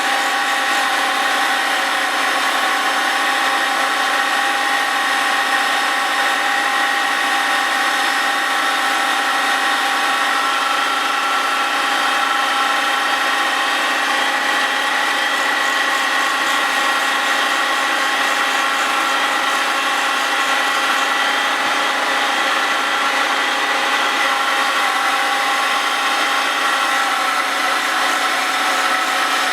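Grinding wheel on a Cincinnati milling machine resurfacing the face of a Willys Jeep flywheel turning on a rotary table: a steady whine over an unbroken grinding hiss.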